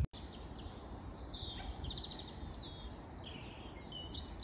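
Songbirds chirping and singing in short high calls, gliding notes and a quick trill, starting about a second in over a steady low rumble.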